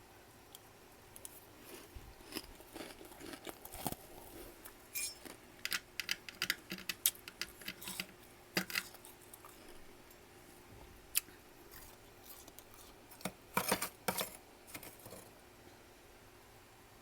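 Freezer frost being chewed: irregular crisp crunches and crackles, coming in clusters, with the densest bursts around the middle and again near the end.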